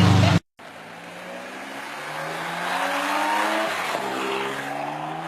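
Car engine accelerating hard, its pitch climbing steadily, dropping at a gear change about four seconds in and then climbing again. Just before, there is an abrupt cut from a louder sound and a split second of silence.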